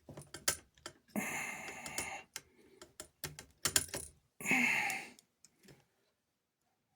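Clicking and rattling of small hard parts being handled and sorted on a workbench, with two longer rattling stretches about a second in and near the middle.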